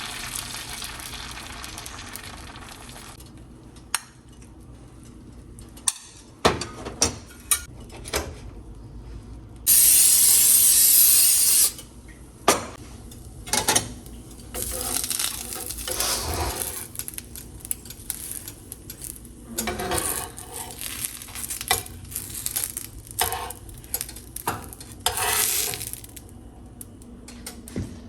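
Kitchen work with dishes and metal utensils: scattered clinks, knocks and scraping. A steady hiss fades out about three seconds in, and a loud hiss lasting about two seconds comes near the middle.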